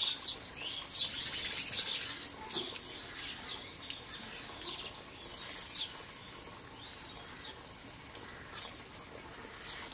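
Small birds chirping, with a dense run of quick chirps over the first few seconds, then scattered single chirps.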